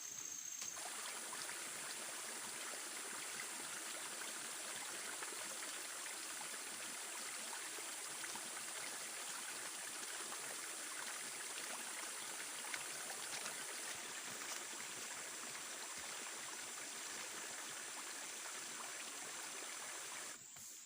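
Flowing stream or river water rushing steadily. It starts abruptly about a second in and cuts off just before the end.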